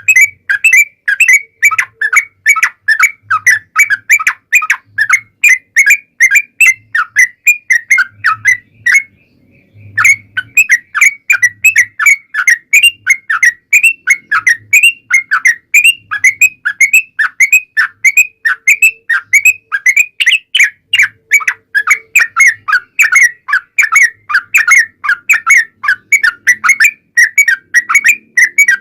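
Yellow-vented bulbul (trucuk) song: a long, rapid run of short chattering notes, about four a second, breaking off briefly about nine seconds in before carrying on.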